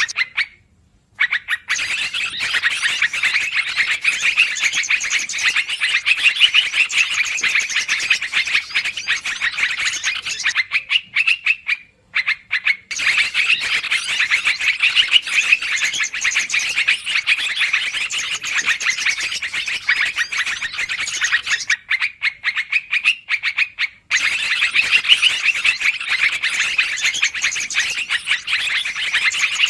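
Lure recording of yellow-vented bulbuls (trucukan), a dense, noisy run of rapid chattering calls. It comes in stretches of about ten seconds, with brief pauses about a second in, near the middle and about two-thirds of the way through.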